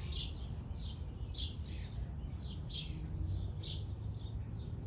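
Small bird chirping over and over: short, high, falling chirps, two or three a second, over a steady low rumble.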